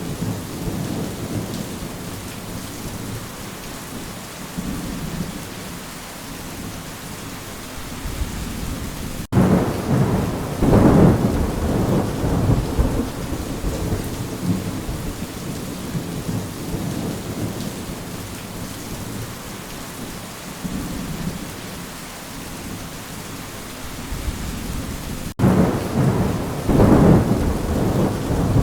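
Steady rain with low rumbles of thunder. Two louder rolls of thunder start abruptly, about nine seconds in and again near the end.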